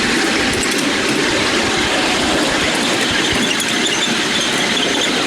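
Miniature railway train running, heard from a passenger car behind a miniature BR Class 31 locomotive: a steady rumble and rush of wheels on track, with a faint high squeal in the second half and light clicks.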